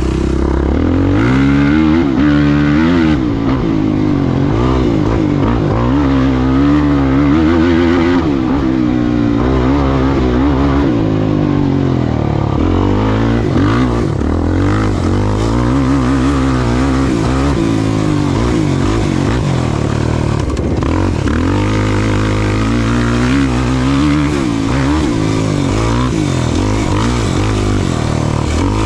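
Off-road racing vehicle's engine running hard, its pitch constantly rising and falling as the throttle is worked over rough ground.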